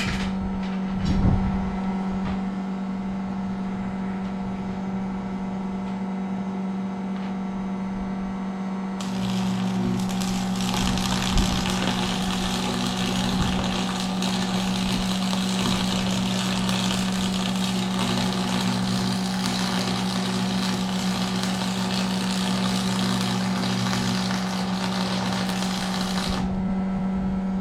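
Steady electrical hum with a single clank about a second in. Then arc welding crackles steadily for about 17 seconds and stops abruptly, patching a hole in a damaged baler's steel.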